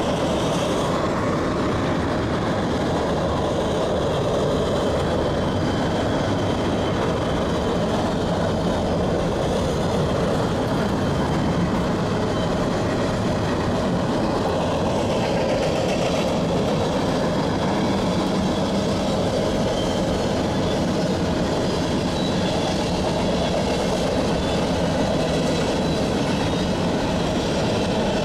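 Freight train's cars rolling past over a railway bridge, a steady, unbroken noise of wheels on rail.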